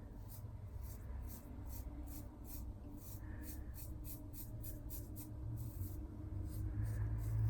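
Razor blade scraping stubble off lathered skin in short, quick strokes, about three a second.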